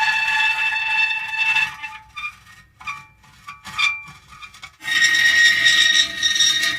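Metal creaking: a long squealing creak that holds steady pitches, then a broken run of shorter squeaks and creaks, then another long creak starting about five seconds in.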